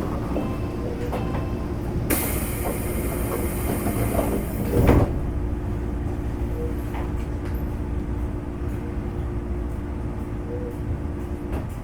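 A train's sliding doors closing: a short chime at first, then a long hiss ending in a thud about five seconds in. A steady hum of the standing commuter car follows.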